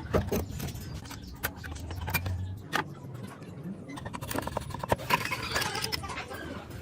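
Hard plastic and metal parts being handled: irregular clicks, knocks and scraping, with a short low hum about two seconds in.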